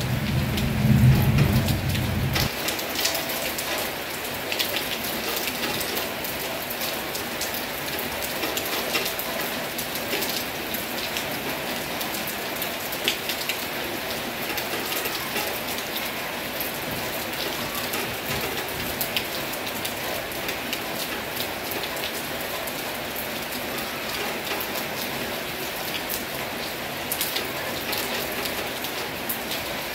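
Heavy rain falling steadily, with many distinct drop hits on a surface. A loud low rumble fills the first two seconds or so and cuts off abruptly.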